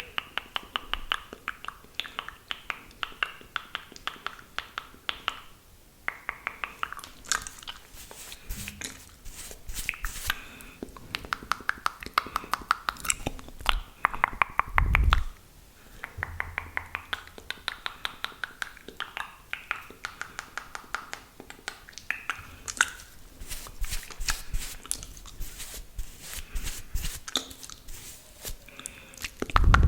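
Close-miked wet mouth sounds of spit painting: rapid runs of saliva clicks and lip smacks over a soft hiss, in phrases of a few seconds. A brief low thump comes about halfway through.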